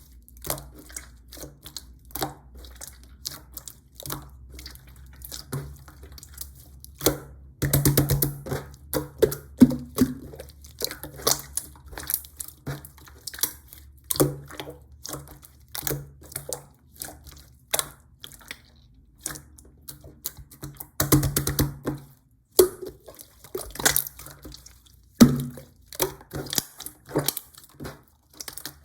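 Slime being squished and stretched by hand, making rapid wet, crackly clicks and small pops, with denser squelchy bursts around 8, 21 and 25 seconds in.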